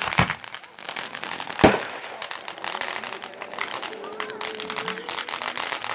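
Fireworks going off: a sharp bang right at the start and a louder one about a second and a half later, over continuous rapid crackling.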